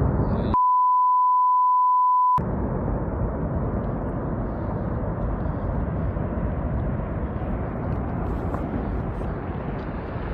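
A steady 1 kHz censor bleep about half a second in, lasting nearly two seconds, blanking out the audio. Around it, a continuous low rushing rumble of the avalanche's snow and wind blast on the microphone.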